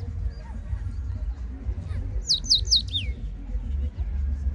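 A bird calling: a quick run of four high notes, each sliding downward, the last dropping lowest, about two seconds in. A steady low rumble runs underneath.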